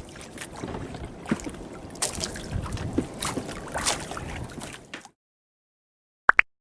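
Water splashing and sloshing close to the microphone, with gusts of wind noise, cutting off abruptly about five seconds in. Near the end come two short, quick electronic beeps.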